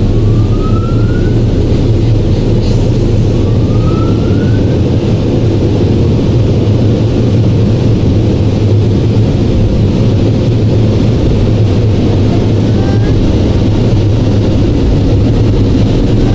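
Automatic car wash running, heard from inside the car: a loud, steady rumble and rush of the wash machinery and water. Faint short rising whines come through a few times.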